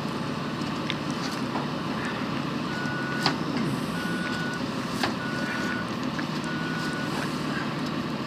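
Truck engine running steadily while a reversing alarm beeps four times, about a second apart, in the middle. A couple of sharp knocks sound along with it.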